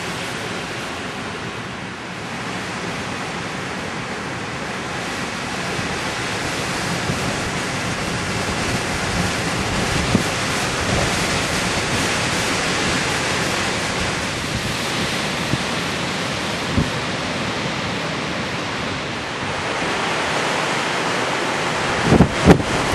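Storm wind and ocean surf making a dense, steady rushing noise. Gusts buffet the microphone with sharp low thumps near the end.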